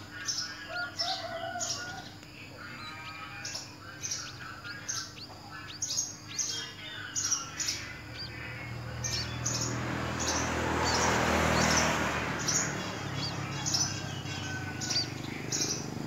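Small birds chirping all through, in short high chirps that come several times a second. About nine seconds in, a rushing noise with a low hum swells up, peaks, then fades over about four seconds, louder than the chirps.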